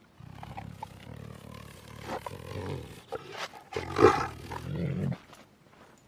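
Tiger growling and roaring: a low rumbling growl that builds to one loud roar about four seconds in, then dies away about five seconds in.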